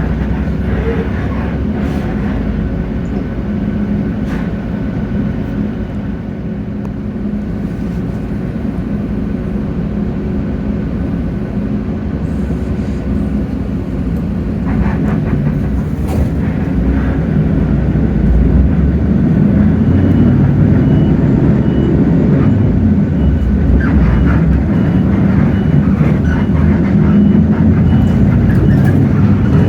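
Hino bus's J08E-VN straight-six diesel running, with road rumble, heard from inside the bus. The engine and road noise grow louder from about halfway through as the bus pulls harder, with a few light rattles and clicks.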